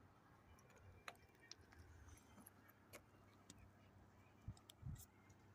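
Near silence with a few faint scattered clicks, and two soft low thumps near the end.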